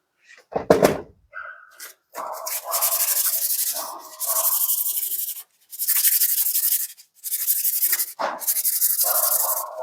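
Sandpaper rubbed by hand over a metal part in fast back-and-forth strokes, in several runs with short pauses, cleaning it down to a shiny finish. A single sharp knock sounds about a second in.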